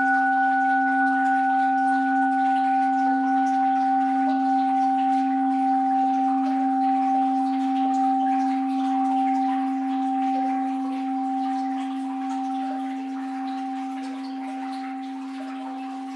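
An orin, a Japanese Buddhist bowl bell, ringing out after a single strike: a steady, layered hum that slowly fades, over a faint wash of flowing water.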